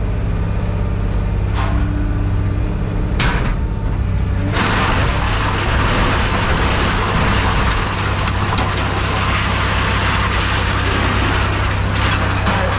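A machine running with a steady low hum. About four seconds in, a loud harsh rushing noise starts on top of it and keeps going, after two brief noisy strokes.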